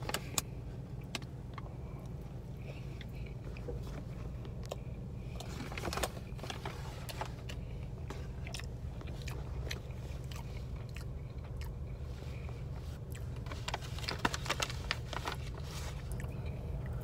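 Biting into and chewing a Chick-fil-A breaded fried chicken sandwich, with scattered crisp crunches that bunch up about six seconds in and again near fourteen to fifteen seconds. A steady low hum of the car runs underneath.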